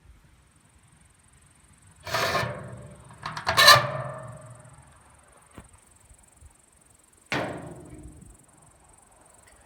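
Metal parts of a camping stove clanking as they are handled: three clanks with a short ringing tail, about two seconds in, near four seconds, and about seven seconds in.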